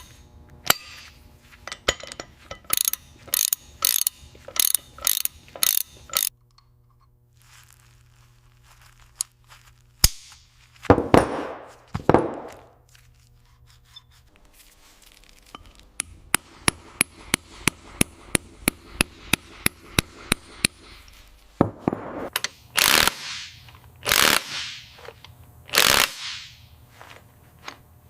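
Hand tools at work on metal parts: a series of sharp knocks and clicks, a few longer noisy strokes, and a run of quick, evenly spaced clicks at about three a second.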